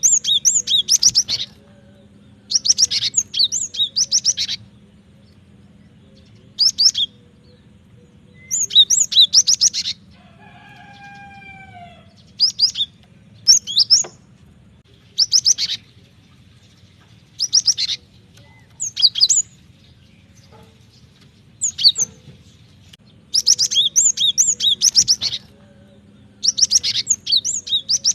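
Cinereous tit (gelatik batu) singing: bursts of rapid, high chattering notes about a second or two long, repeated every couple of seconds. A lower, drawn-out falling call comes about ten seconds in, over a steady low hum.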